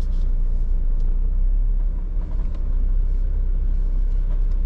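Jeep engine idling with a steady low rumble while the vehicle stands still.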